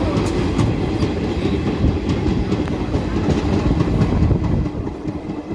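Moving passenger train (the Doon Express) running with a steady low rumble and occasional faint clicks of wheels over the track.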